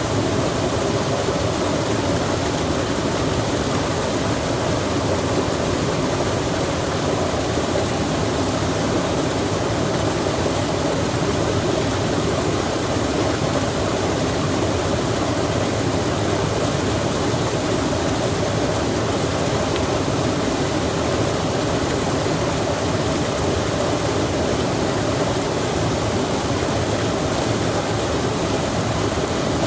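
Steady, even rushing of a flowing mountain stream, with no breaks or distinct events.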